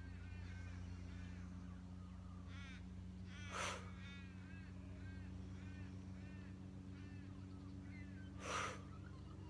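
Two short, forceful exhalations through the mouth, about five seconds apart, over birds chirping repeatedly and a steady low hum.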